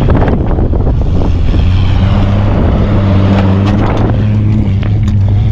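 An off-road vehicle's engine running hard at a steady pitch under load as it works through deep snow, with wind buffeting the microphone.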